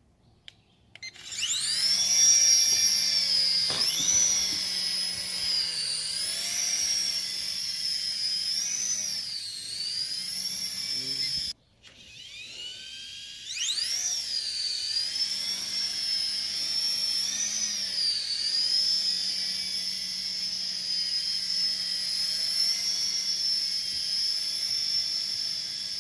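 DeeRC SQN040 toy RC helicopter's electric motor and rotors spinning up for a one-button takeoff, a high whine that wavers in pitch as it hovers. The whine cuts off suddenly about halfway through, then spins up again and runs steadily.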